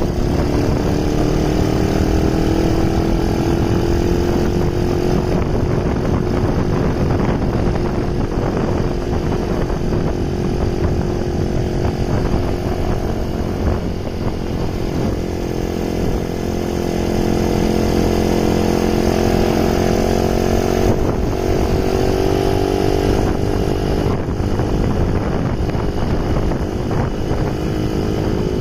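Honda Ape 50's single-cylinder four-stroke engine running steadily, its pitch slowly rising and falling several times as the revs change, over a steady low rush of noise.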